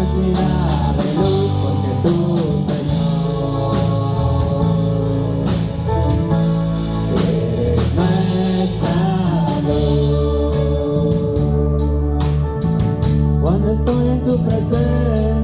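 Live church worship music: singing over a band with drum kit and guitar, the drums keeping a steady beat.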